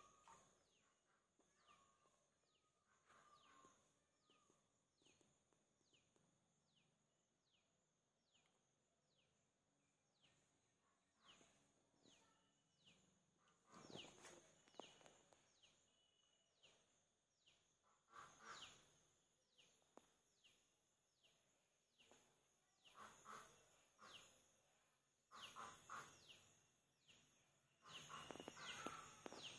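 Faint bird chirping: a steady series of short falling chirps, each under a second apart. A few louder bursts of noise come in the second half.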